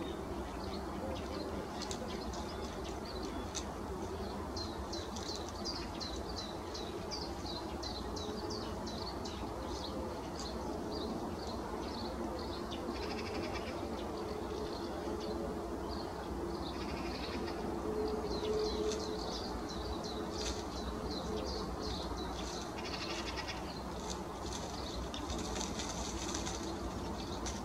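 Birds chirping in quick runs of short, high notes, with a few harsher, rasping bursts in between, over a steady low background hum.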